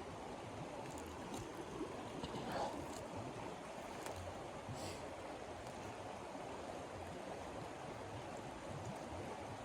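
Steady rushing of blizzard wind, with a few faint clicks through it.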